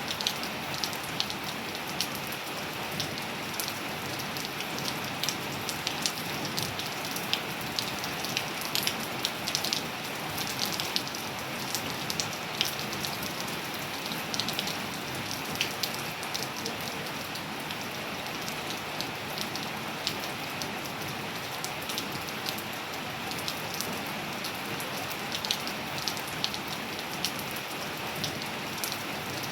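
Steady rain falling, an even hiss with many distinct raindrop ticks and splats on a nearby surface.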